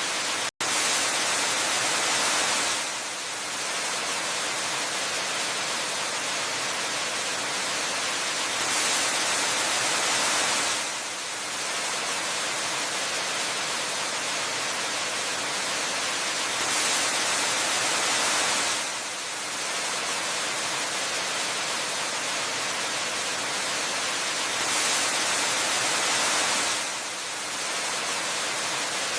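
Steady rushing white-noise hiss of a waterfall ambience track, bright and without bass. It swells a little and then dips about every eight seconds, and cuts out for an instant about half a second in.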